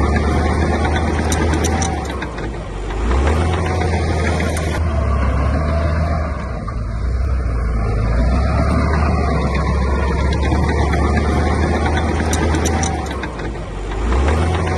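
Heavy diesel engine of construction machinery running under load. It eases off briefly about two and a half seconds in and again near the end, then picks up.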